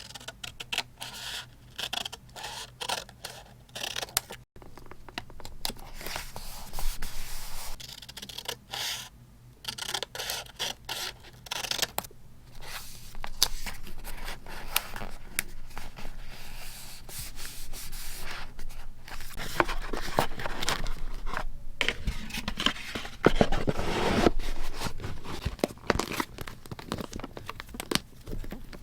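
Paper handled close up for scrapbook journaling: rubbing and tearing, with many short clicks and taps.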